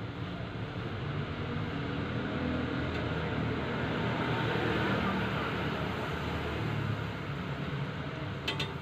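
Street traffic noise, with a vehicle passing that swells to its loudest about halfway through and fades, and a few sharp clicks near the end.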